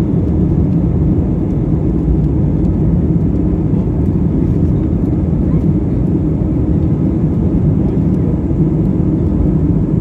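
Steady low rumble of airliner cabin noise: jet engines and rushing air heard from inside the passenger cabin, even and unbroken.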